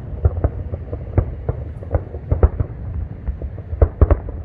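Distant fireworks in a grand finale: a rapid, irregular run of booms and bangs over a continuous low rumble, with the loudest pair of bangs near the end.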